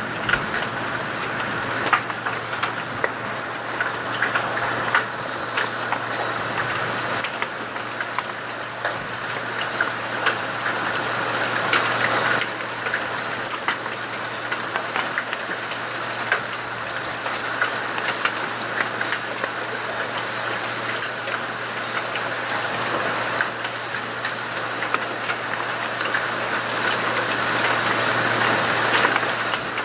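Heavy rain and hail beating down: a dense hiss scattered with many sharp ticks of stones striking hard surfaces, over a steady low hum.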